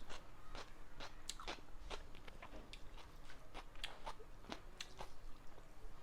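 Close-miked eating: a person chewing and crunching a mouthful of food, with irregular sharp crunches and wet mouth clicks, a couple each second.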